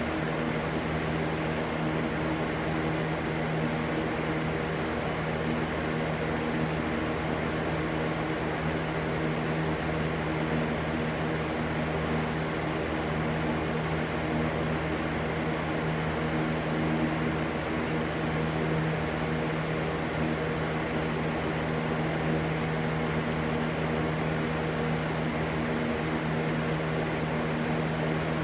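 Steady white-noise rush with a constant low hum running under it, unchanging throughout.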